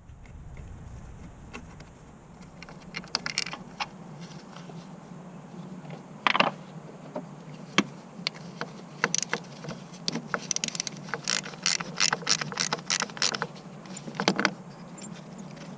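Hand tools working on a car: scattered metallic clicks and knocks, with a run of quick clicks partway through, over a steady low hum.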